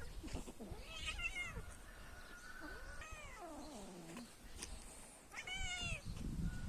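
A cat meowing three times: a short call about a second in, a long call falling in pitch about three seconds in, and another short call near the end.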